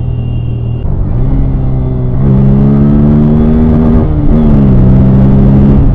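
Bajaj Pulsar N160's single-cylinder engine running at road speed, heard from the rider's seat. Its note dips about a second in, climbs and gets louder about two seconds in, then drops to a lower steady pitch about four seconds in.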